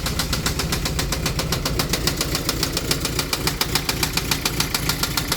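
Toyota MR2's 1ZZ-FE four-cylinder engine running with a loud, rapid, steady knock: the engine is blown and needs replacing.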